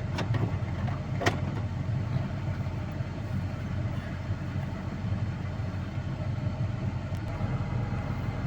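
Motor vehicle engine running steadily with a low rumble, and a single click about a second in.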